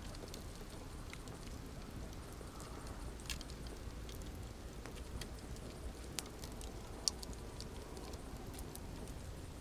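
Campfire burning with a steady low rumble and scattered sharp crackles and pops, the loudest pop about seven seconds in.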